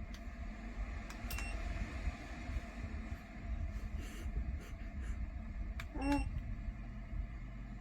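Two short electronic beeps from a ceramic fan heater's control panel, one high about a second and a half in and a lower, wavering one about six seconds in, over a low steady rumble of fan and air noise.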